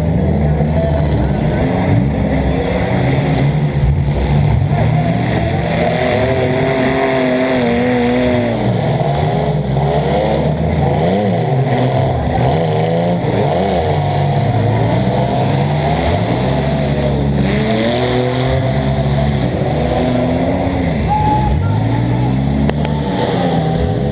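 Demolition derby compact cars' engines revving up and down over and over, several engines overlapping at once, heard from inside a car's stripped cab.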